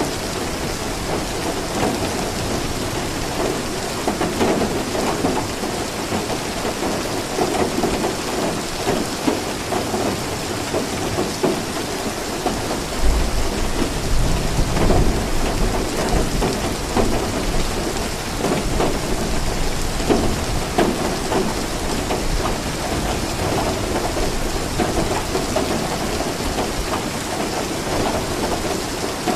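Steady rain falling, with a low roll of thunder rumbling about halfway through.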